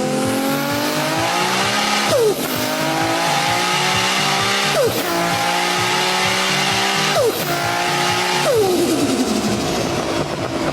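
Car engine accelerating hard through the gears: the pitch climbs, then drops at each of four upshifts, like a race car pulling away.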